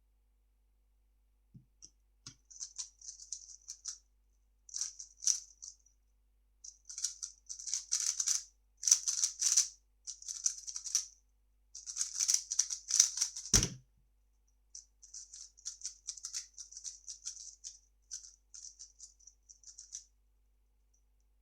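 3x3 speedcube being turned fast: runs of rapid clicking and rattling from its layers, with short pauses between runs. A single sharp thump comes about two-thirds of the way through.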